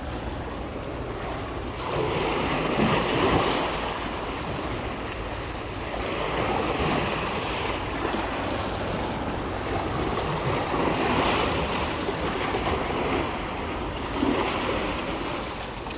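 Sea waves washing onto the shore, the hiss swelling and easing every three or four seconds, with wind rumbling on the microphone.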